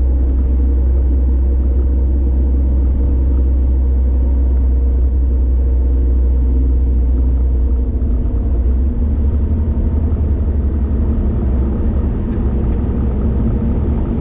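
Steady low rumble of a car driving on a highway, its engine and road noise running together; the deepest part of the rumble shifts about eight seconds in.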